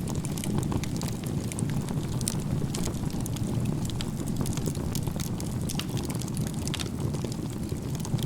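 Wood fire built in a crisscross log-cabin stack (igeta-gumi), burning with a steady low rush of flame and frequent small crackles and pops of the firewood.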